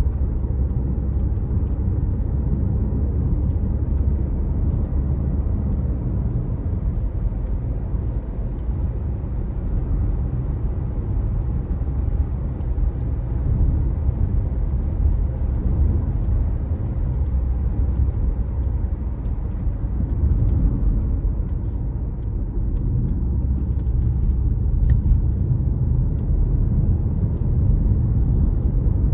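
Car driving steadily along a road: a continuous low rumble of engine and tyre noise, with a few faint clicks now and then.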